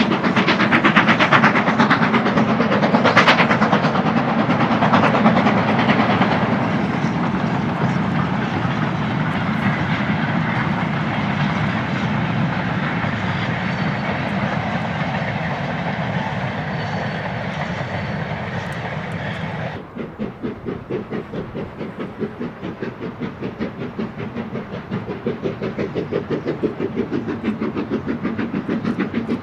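BR Standard Class 9F 2-10-0 steam locomotive working a mixed goods train: a loud, steady din of exhaust and clattering wagons. About two-thirds through it drops suddenly and gives way to an even, rhythmic beat of a few pulses a second.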